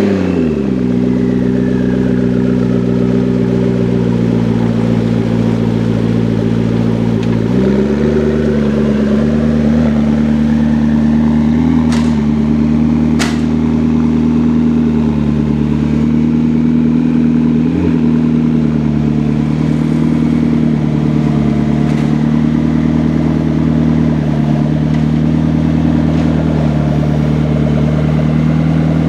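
McLaren 650S's twin-turbo V8 idling just after start-up. The engine's start-up rev dies away in the first second, and it then idles steadily, with a slight change in pitch about eight seconds in.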